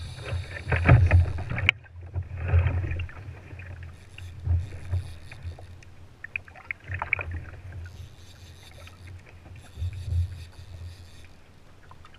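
Water splashing and sloshing against a fishing kayak in irregular bursts, over a low rumble.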